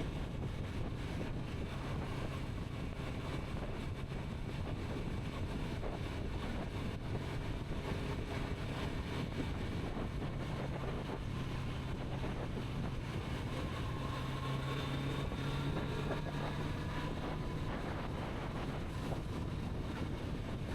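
Kawasaki Z900RS inline-four engine running on the move, with wind noise on the microphone. The engine note climbs slightly over the middle of the stretch as it gains revs.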